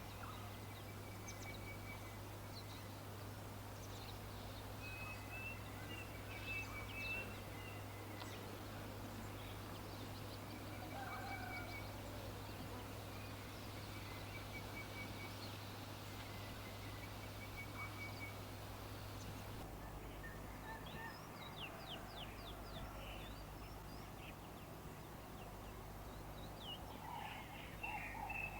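Several birds chirping, with short high trills repeating every second or two over a steady low hum. About twenty seconds in the background changes and quick high chirps take over, and a louder run of lower calls comes near the end.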